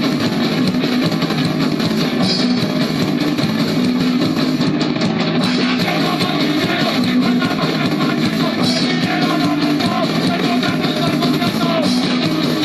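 Punk rock music: loud, steady distorted electric guitars with bass and drums.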